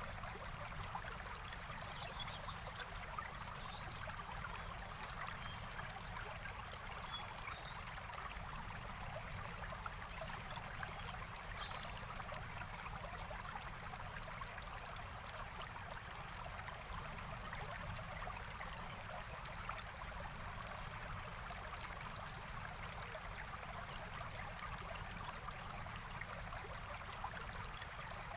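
Forest stream flowing steadily over stones, an even trickling rush of water. A few faint, short, high bird chirps come through in the first half.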